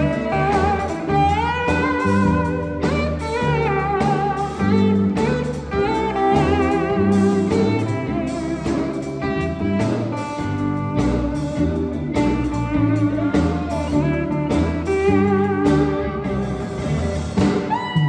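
Sacred Steel gospel band playing instrumental music: a steel guitar plays sliding, wavering lead lines over bass and drums.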